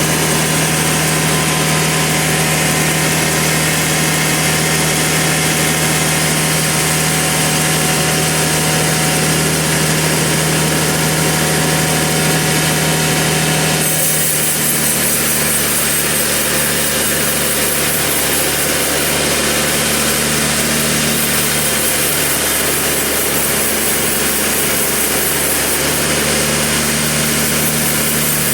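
A sawmill running under load as it cuts a log: a steady motor hum under a constant rush of sawing noise. About halfway through the sound changes, with the high hiss getting stronger.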